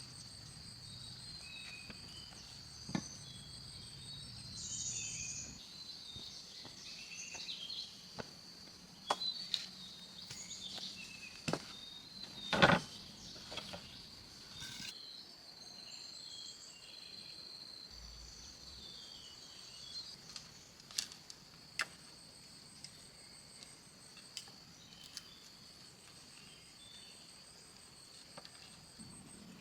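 Steady insect chirring in the background, broken by scattered sharp knocks and clicks; the loudest knock comes about halfway through.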